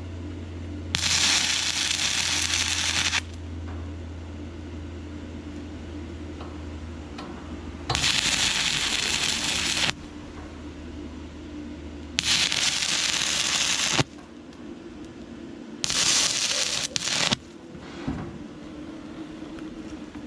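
Stick welding arc from an inverter arc welder burning 6011 rod on rusty, painted thin metal: four separate runs of loud crackling and sputtering, each about two seconds long, as the arc is struck and broken again.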